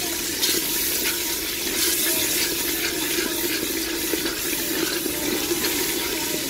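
Tomato, green chilli and spice masala sizzling and bubbling in a clay handi with a splash of water, being frying down (bhuna) as a wooden spatula stirs it. A steady hiss with light scrapes of the spatula.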